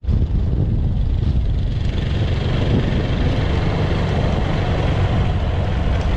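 A vehicle travelling along a road: a steady low rumble with wind buffeting the microphone.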